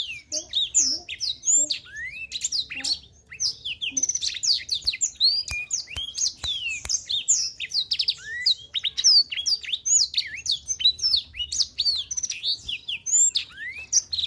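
Black-throated canary (blackthroat) singing a long, unbroken song of rapid chirps and sweeping whistled notes, with hardly a pause.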